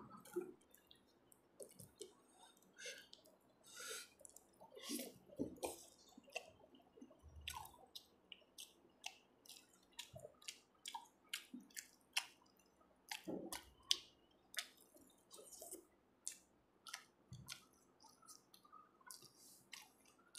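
Close-miked eating sounds: a person chewing a mouthful of fried rice and chicken curry eaten by hand, with quiet, irregular wet clicks and lip smacks several times a second.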